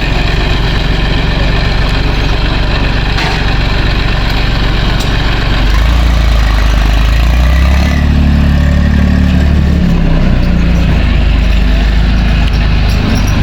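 Tractor engine running steadily. The engine note rises about six seconds in, then settles back to a steady run near the ten-second mark.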